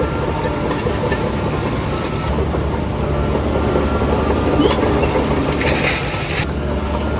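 Heavy crawler dozer's diesel engine running steadily with the clanking rattle of its steel tracks, with a brief hiss about six seconds in.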